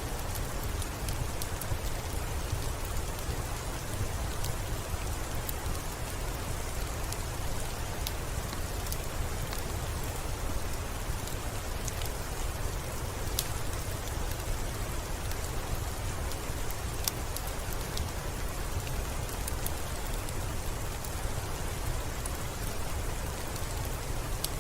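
Steady rainfall, an even hiss over a low rumble, with scattered sharp clicks here and there.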